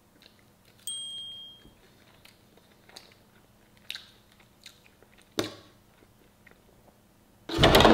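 A person biting and chewing crispy fried chicken: scattered small crunches and mouth clicks. There is a short high ping about a second in, and a loud sudden sound starts just before the end.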